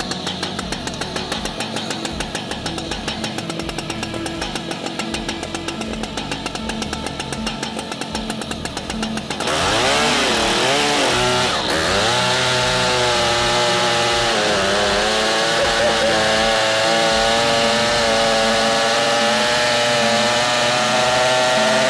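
Stihl MS 881 Magnum two-stroke chainsaw. For the first half there is a quieter, steady, rapidly pulsing sound. About halfway in the saw suddenly comes in loud, its pitch swinging up and down with the throttle, then holding steadier at high revs toward the end.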